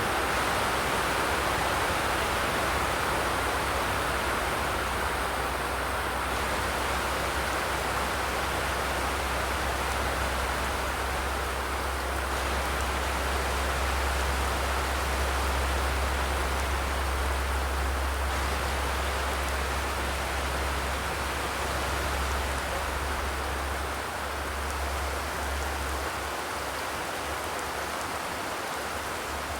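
Steady rain falling, an even hiss, with a low rumble underneath that thins out and breaks up near the end.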